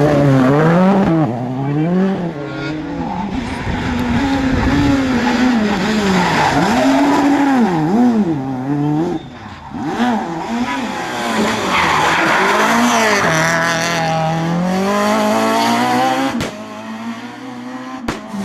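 Rally car engines revving hard, then falling away through gear changes and lifts, the pitch rising and dropping again and again. The sound breaks off abruptly a couple of times near the end as one car gives way to the next.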